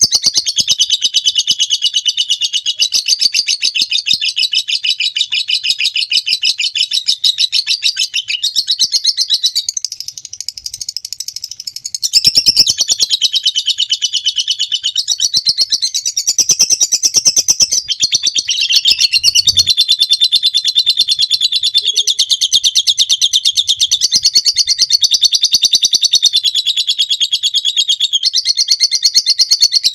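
Lovebird ngekek: a long, unbroken, rapid high-pitched chattering trill, dropping quieter for a couple of seconds about a third of the way in before coming back at full strength.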